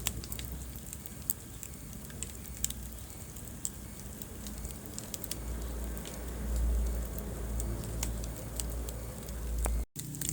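Wood fire crackling in a fireplace: irregular sharp pops and snaps over a steady low rumble of the flames, swelling a little past the middle. The sound cuts out for an instant near the end.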